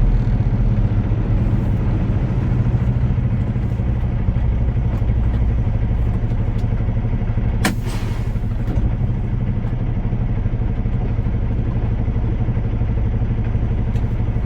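Semi-truck's diesel engine running steadily at low speed, a low rumble heard from inside the cab. A single sharp click with a short hiss after it sounds about halfway through.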